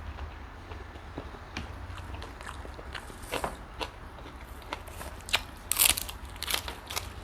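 Close-up chewing and biting of giant river prawn, with irregular crisp crunches of the shell, the loudest about five to six seconds in.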